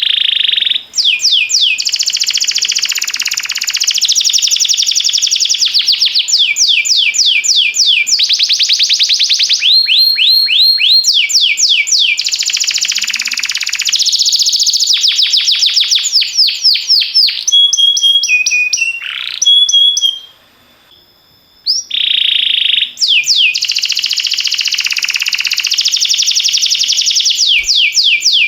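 Domestic canary singing a long, loud song of fast, rapidly repeated downward-sweeping trills and held whistled notes, broken by one short pause about twenty seconds in.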